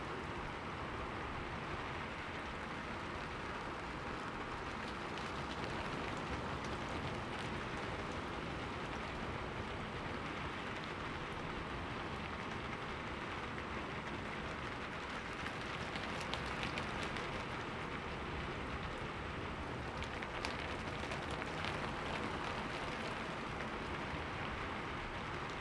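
Steady rain falling on window glass, a continuous hiss with fine drop ticks, a little heavier in a few short spells past the middle.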